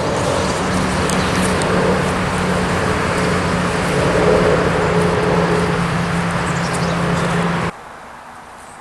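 A motor vehicle's engine running close by with road noise, a steady low hum under a loud rush, cutting off suddenly near the end.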